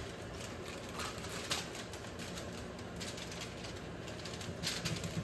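Broccoli cooking on the stove behind the cook: a faint steady hiss with scattered irregular ticks and crackles, a few sharper ones near the end.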